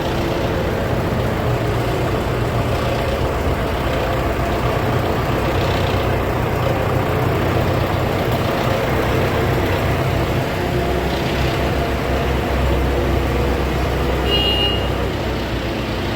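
Large tractor diesel engine running steadily, with a brief high-pitched squeak about fourteen seconds in.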